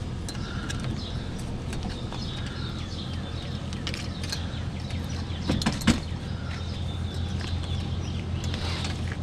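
Metal clicks and rattles from a scrap cot frame being handled and a part pulled off it, with a couple of louder knocks about five and a half seconds in, over a steady low engine hum.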